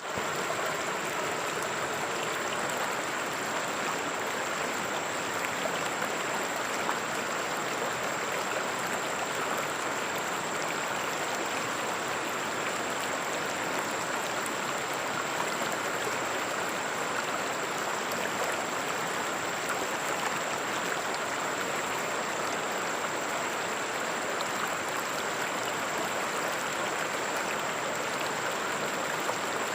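River water flowing steadily: a continuous, even rushing with no breaks.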